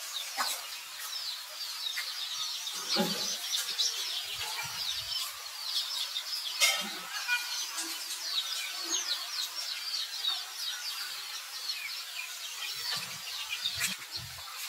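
A dense chorus of small birds chirping: many short, high, quickly falling chirps overlapping without pause, with a few soft low thuds.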